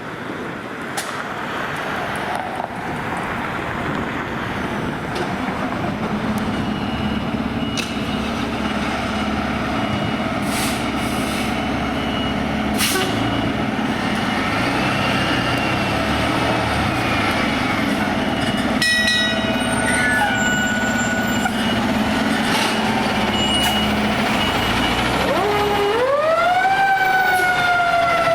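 Fire apparatus responding: a heavy diesel engine running and growing steadily louder as it approaches. Near the end a siren winds up quickly, then slowly falls in pitch.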